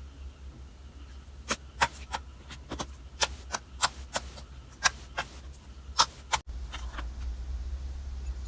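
Soap being cut and broken: a run of sharp, irregular cracks and clicks, about a dozen in all, over a steady low hum.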